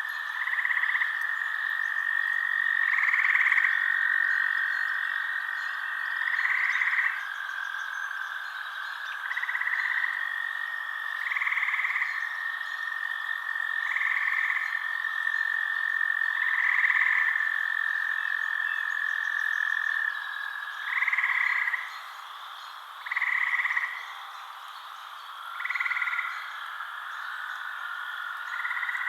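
Frogs calling at night: short croaking calls repeat about every two to three seconds over a steady high trill.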